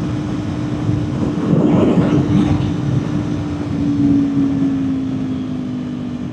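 Kawasaki Ninja 400's parallel-twin engine running steadily at cruising speed under heavy wind rush; its drone drops slightly in pitch about four seconds in.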